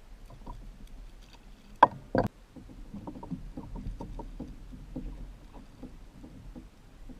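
Knocks and rattles of gear on a Hobie Pro Angler fishing kayak: two sharp knocks about two seconds in, then a run of light, irregular clicks and taps over a low rumble.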